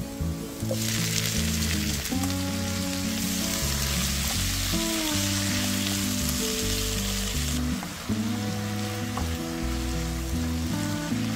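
Chopped tomatoes landing in hot oil with onion and garlic in a nonstick frying pan, sizzling strongly from about a second in and quieter after about seven and a half seconds as a spatula stirs them. Background music plays under it.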